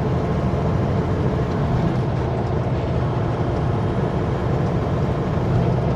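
Steady engine drone and road noise inside the cab of a Kenworth W900L semi-truck cruising on the highway.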